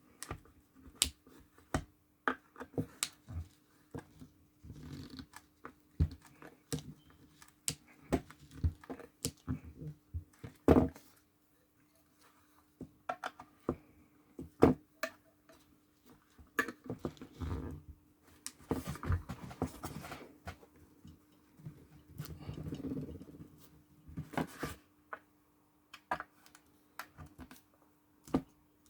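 Irregular clicks, knocks and scrapes of small tools and parts being handled on a bench, with a few longer scraping stretches, over a faint steady hum.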